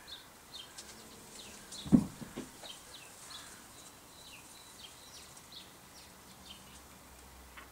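Small birds chirping over and over, short high notes that slide downward. A dull thump about two seconds in, with a couple of softer knocks after it, is the loudest sound.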